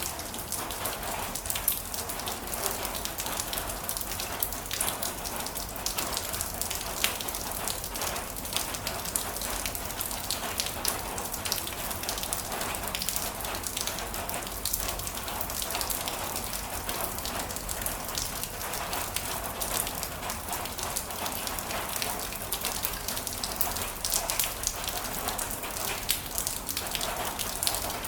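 Heavy rain falling steadily, with many individual drops striking close by as sharp taps over a continuous hiss.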